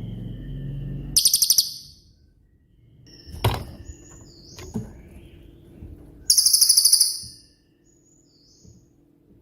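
Cililin songbird singing: two loud rapid bursts of sharp repeated high notes ('tembakan'), about a second in and about six seconds in, with a few short thin whistles between them. Two brief knocks fall in the middle.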